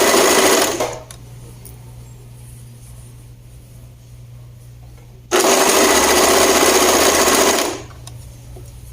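Sewing machine stitching a sleeve seam onto a blouse. It runs in two bursts: the first stops about a second in, and after a pause of about four seconds it runs again for just over two seconds.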